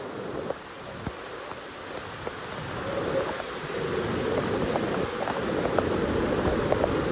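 Steady rushing water noise, growing gradually louder, with a few faint scattered ticks.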